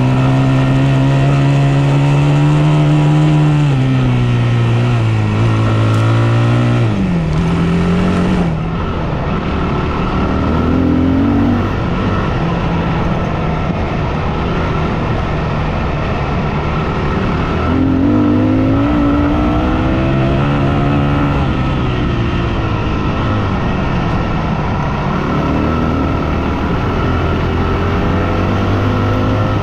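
Yamaha WR250F's 250 cc four-stroke single-cylinder dirt bike engine being ridden. The engine note holds high and steady for the first few seconds, falls away about seven seconds in, then climbs and drops repeatedly as the throttle is worked, over a steady rush of wind and tyre noise.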